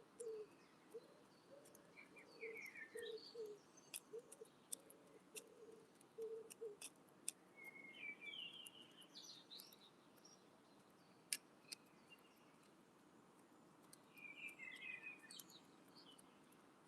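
Faint chirping of small wild birds in three short bursts, with a run of short low notes in the first seven seconds and scattered sharp taps, the loudest about 11 seconds in.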